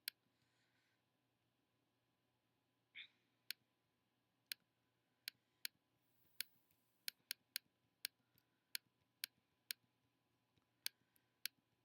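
Faint computer mouse button clicks: about twenty sharp single clicks at irregular intervals, bunching to several a second in the middle, while spots are retouched one click at a time.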